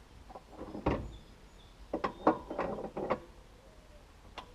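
Metal clanks and rattles as a hitch pin is put back into the ATV's hitch: one knock about a second in, then a quick run of clanks around two to three seconds, and a single click near the end.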